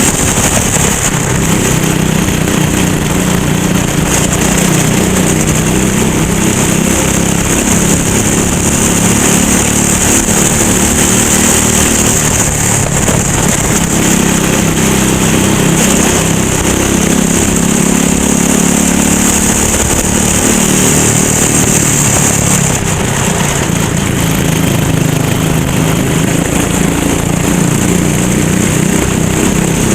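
Racing kart engine running hard, its pitch rising and falling every few seconds as the kart accelerates and slows through the laps, over a steady high hiss.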